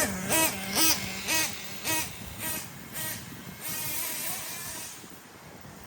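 The OFNA Titan's .25 nitro engine running at low speed, its pitch jumping up in short throttle blips about twice a second, fading out over the first few seconds as the truck moves away.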